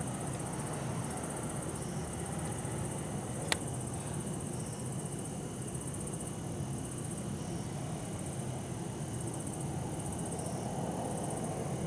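Japanese bell crickets (suzumushi) and other insects singing in repeated short pulsed trills over a steady low hum of distant city traffic. A single sharp click comes about three and a half seconds in.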